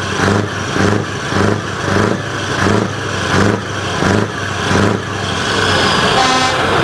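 Scania 144L 530's V8 with straight exhaust pipes, revved in short repeated blips of about one and a half a second. In the last second or so it gives way to a steadier sound with a few held tones.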